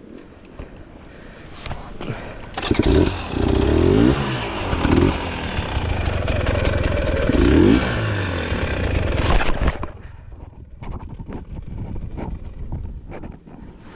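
Dirt bike engine revving hard under load, its pitch rising and falling several times for about seven seconds, then dropping back to a low idle-level sound.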